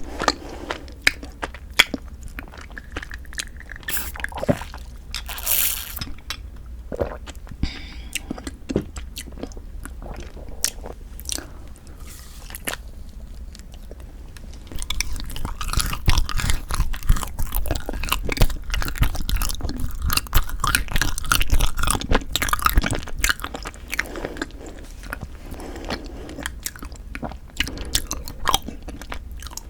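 Close-miked eating: biting and chewing of frozen Kiri cream cheese rice cakes, with crunching. The chewing grows denser and louder for several seconds about halfway through.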